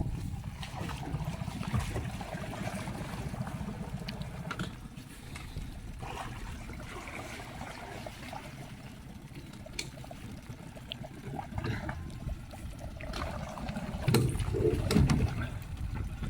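Water splashing and trickling along a small boat as it moves through shallow water, over a steady low rumble, growing louder for a moment near the end.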